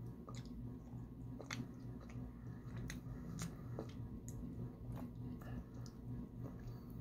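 A person chewing taro fudge close to the microphone: irregular wet clicks and smacks of the mouth, about one or two a second, over a steady low hum.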